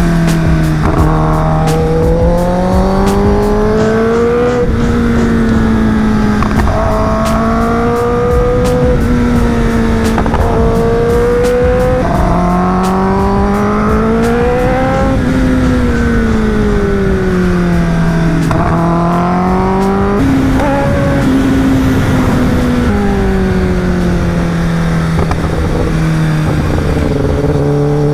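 Superbike engine accelerating and easing off again and again through bends, its pitch climbing and dropping every two to four seconds.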